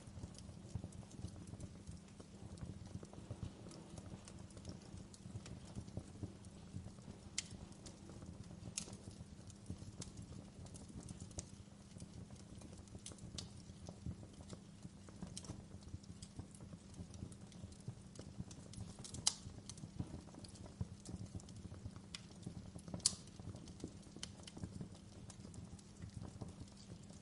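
Campfire crackling: a steady low crackle with sharp pops and snaps scattered irregularly through it, and two louder snaps in the last third.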